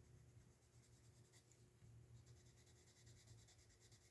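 Faint scratching of a Crayola Colors of the World coloured pencil shading on paper in quick repeated strokes, over a low steady hum.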